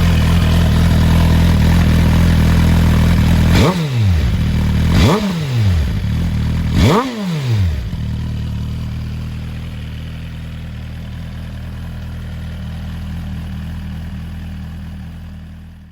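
2022 Suzuki GSX-R1000R's inline-four engine with a Yoshimura exhaust, idling and blipped three times on the throttle a few seconds in. Each rev climbs sharply and drops straight back to idle. The idle then runs on, fading out near the end.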